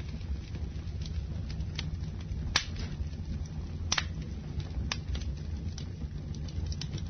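Campfire burning with a steady low rumble, and wood crackling and popping in scattered sharp snaps, the loudest about two and a half and four seconds in.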